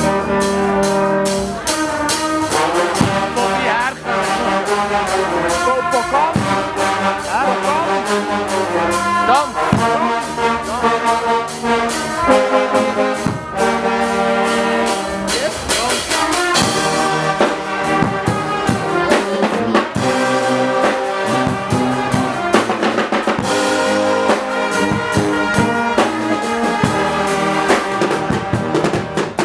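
Guggenmusik carnival band playing a tune: trumpets and trombones over drums keeping a steady beat.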